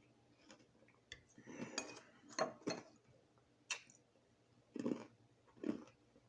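Crushed ice crunching and clicking: a series of irregular sharp crunches, the loudest about two and a half seconds in.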